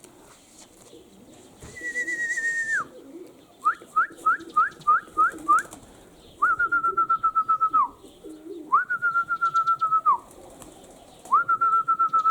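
Loud whistling to drive young pigeons up into flight: a long high note, a quick run of seven short rising chirps, then three long level warbling whistles, each dropping off at the end. Pigeons coo faintly underneath.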